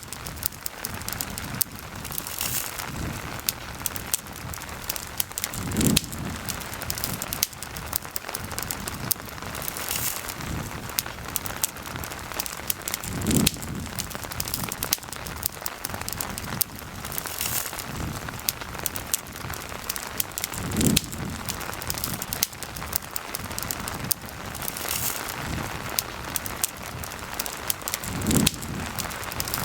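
Steady rain with a campfire crackling and popping through it. A brief low thump recurs about every seven to eight seconds.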